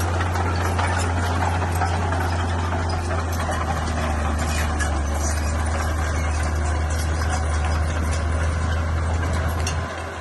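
Bulldozer's diesel engine running steadily with a low drone, with scattered clanks and rattles over it. It drops in level shortly before the end.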